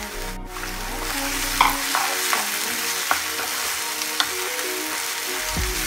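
Crushed onion and bitter gourd peels sizzling steadily in hot mustard oil in a frying pan, with a wooden spatula stirring and scraping against the pan a few times.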